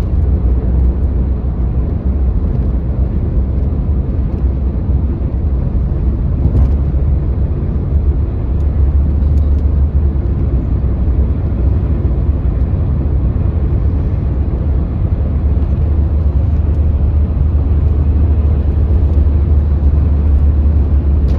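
Steady low rumble of a moving vehicle heard from inside, running evenly throughout.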